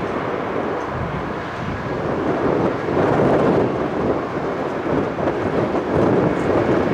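Jet noise from a Boeing 717-200's two rear-mounted Rolls-Royce BR715 turbofans at takeoff power as it climbs out: a steady rushing rumble that grows louder about three seconds in.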